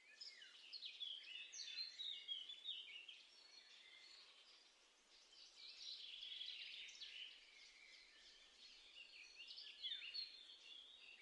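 Faint songbird calling: a dense run of short chirps and quick gliding calls, several overlapping.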